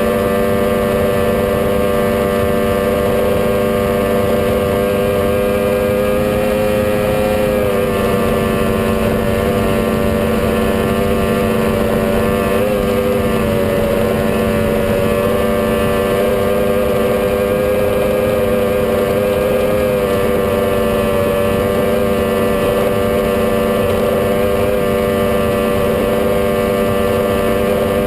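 A 21-foot Challenger performance boat's engine running steadily at speed, a loud even drone. The pitch sags slightly about seven seconds in and again right at the end.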